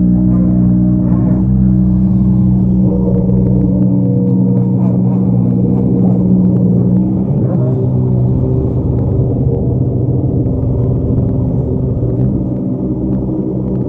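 Rally car engines idling at close range as the cars crawl slowly along, a steady engine note that turns rougher about halfway through.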